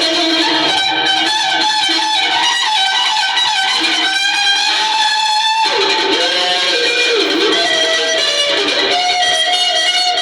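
Electric guitar playing a sustained blues-rock lead, its notes bending in pitch and wavering, with a new phrase starting about halfway through.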